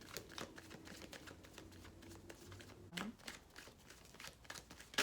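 Tarot cards being shuffled by hand: a quick, uneven patter of card-on-card clicks, ending in one sharp snap as a card comes out of the deck.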